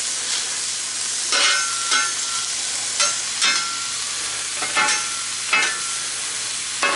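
Diced smoked sausage and mushrooms sizzling in oil on a Lodge Blacklock cast iron griddle, under a steady hiss. A metal spatula scrapes across the iron about seven times as the food is stirred.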